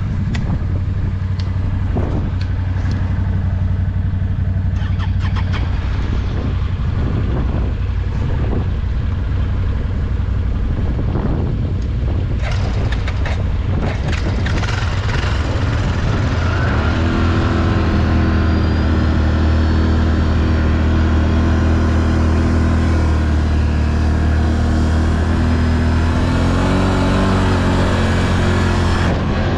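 ATV engine running steadily as the quad is ridden along a trail, with scattered knocks and rattles in the first half. From a little past halfway the engine note holds at a steady, clearer pitch.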